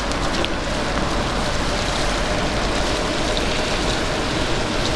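Heavy rain falling, a steady even hiss, with a faint steady hum underneath.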